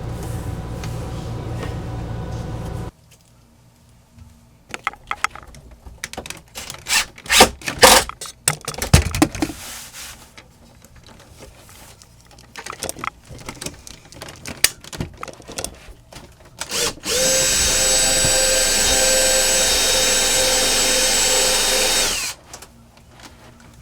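Power drill driving a screw into the wooden bed frame, in one steady run of about five seconds near the end. Before it come scattered knocks and clicks of wood and hardware being handled, and a steady low hum that cuts off about three seconds in.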